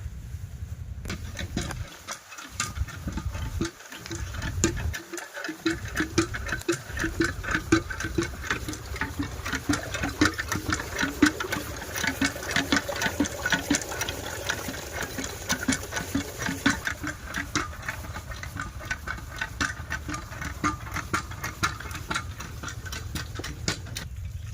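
Single-cylinder diesel engine of an 8 hp farm water pump running with a steady, rhythmic mechanical clatter.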